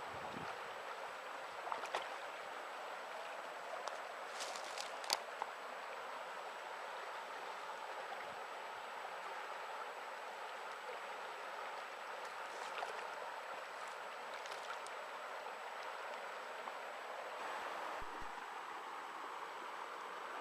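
Steady rush of a small mountain river flowing over stones, with a few brief clicks and knocks over it in the first few seconds and near the middle.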